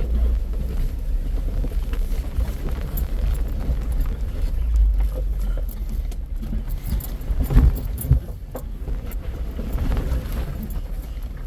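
Off-road vehicle driving a rough trail: a steady low engine and drivetrain rumble with scattered knocks and rattles from the suspension and body, and a heavier thump about seven and a half seconds in.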